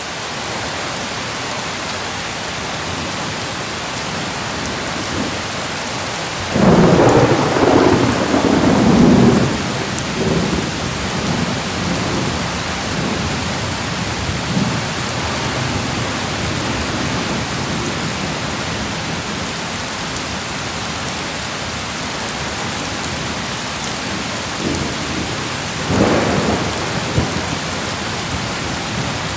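Steady heavy rain with thunder: a long rolling rumble of thunder about a quarter of the way in, and a shorter one near the end.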